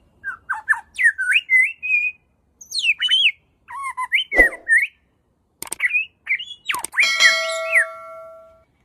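Birds chirping and whistling in quick, varied phrases of rising and falling notes, with short pauses between them. Near the end comes one long, steady whistle-like tone that slowly fades.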